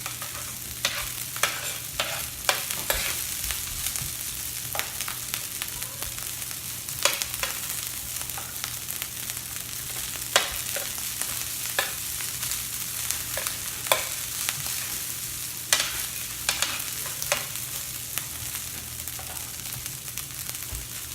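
Cooked rice frying in vegetable oil on a hot griddle: a steady sizzle with scattered sharp pops and clicks throughout.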